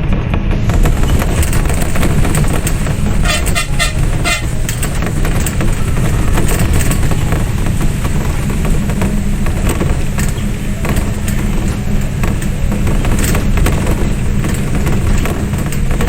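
Steady loud low rumble, with a brief pulsing horn tone about three seconds in.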